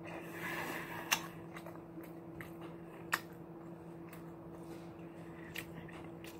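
Close-miked chewing and mouth sounds of a person eating a beef quesadilla, with two sharp clicks about one and three seconds in, over a steady low background hum.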